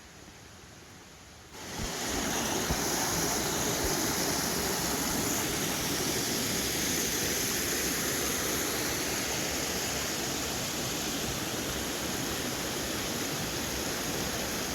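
Rushing water of a waterfall stream at close range, a steady, loud wash of noise that starts abruptly about a second and a half in.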